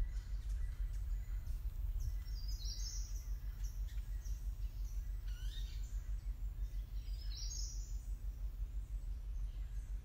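High-pitched bird calls over a steady low rumble of outdoor ambience. A similar call comes about three seconds in and again about seven and a half seconds in, with fainter calls between them.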